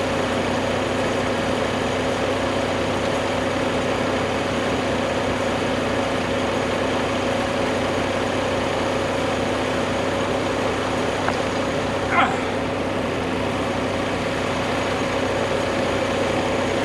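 Tractor engine running steadily at a constant speed, with no revving. A brief high squeak about twelve seconds in.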